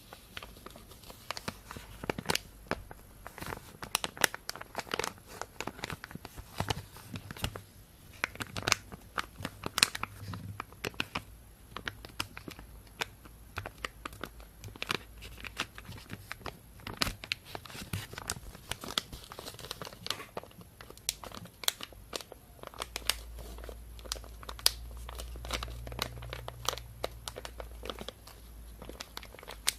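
A thin plastic bag being crinkled and rustled close to a binaural microphone, with dense, irregular sharp crackles throughout.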